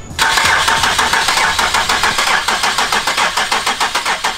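Nissan 370Z's V6 being cranked over by the starter in an even, rapid rhythm, starting suddenly. The engine is being cranked to build oil and fuel pressure after a turbo kit install, before the first real start.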